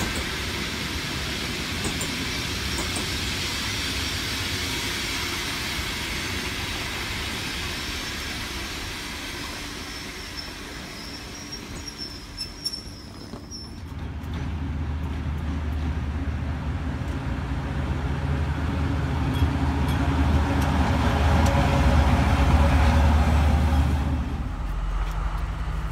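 Passenger train coaches rolling past with steady wheel and rail noise. About halfway through this gives way to a deep, steady engine drone close by that grows louder, then drops near the end.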